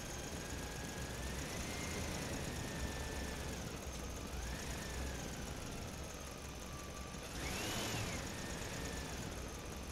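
A truck engine running steadily, with a low rumble and a thin whine that rises and falls in pitch, swelling briefly near the end.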